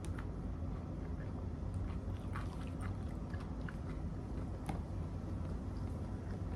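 A person chewing food close to the microphone, with faint scattered mouth clicks and smacks over a steady low hum.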